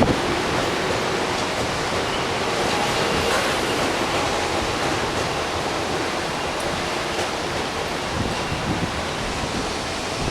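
Typhoon wind and rain making a steady rushing noise, with gusts buffeting the microphone.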